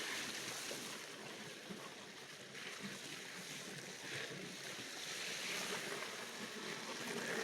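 Fairly quiet, steady rushing of wind and surf, with gentle swells in level.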